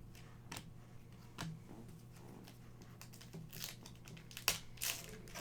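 Trading cards and a foil card-pack wrapper being handled: light crinkling with scattered soft clicks and swishes as cards slide, and one sharper click about four and a half seconds in.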